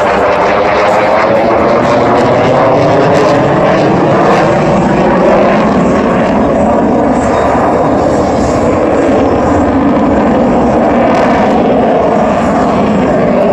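F-22 Raptor's twin F119 jet engines running loud and steady through a display manoeuvre. The rushing engine noise has a slowly sweeping, phasing tone as the jet moves across the sky.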